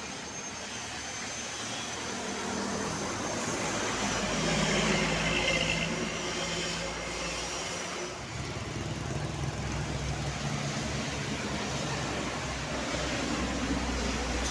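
Heavy vehicles passing on a road: an engine drone grows to its loudest about five seconds in, and a second engine takes over about eight seconds in and keeps running.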